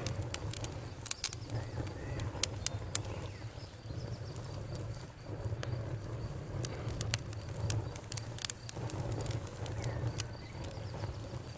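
Campfire burning: wood crackling with irregular sharp pops and snaps over a low steady rumble.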